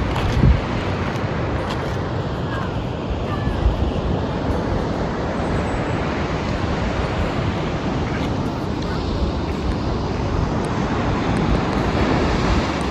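Steady wash of ocean surf mixed with wind on the microphone, with low rumbling gusts of wind buffeting.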